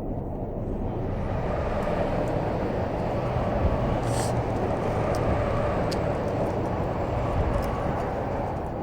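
Wood campfire with small scattered crackles and pops, one sharper pop about four seconds in, over a steady rushing noise that swells over the first few seconds and eases near the end.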